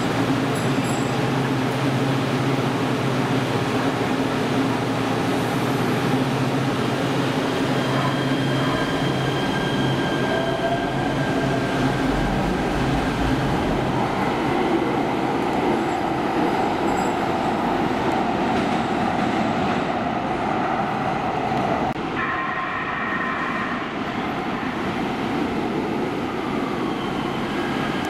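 Light rail train pulling out of an underground station platform: a steady hum, then the motor whine rising in pitch about ten seconds in as it picks up speed, with wheel and rail noise.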